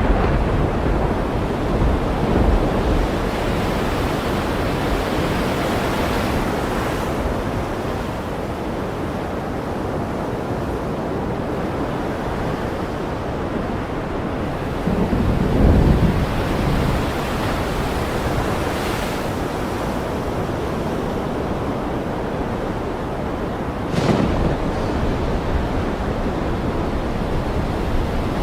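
Ocean surf washing in a steady hiss, swelling louder now and then, with one deep surge about halfway through and a sudden sharper burst about three quarters of the way through.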